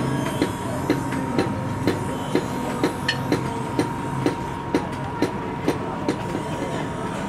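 Hand-hammer blows on steel at an anvil, a steady rhythm of about two strikes a second.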